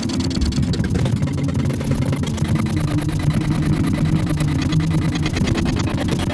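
A steady, loud, low rumbling drone with a dense rapid flutter, engine-like in character.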